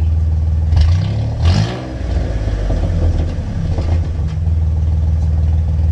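Pickup truck engine idling, given a brief throttle blip about a second in; the revs rise and fall, the idle runs unevenly for a couple of seconds and then settles back to a steady idle.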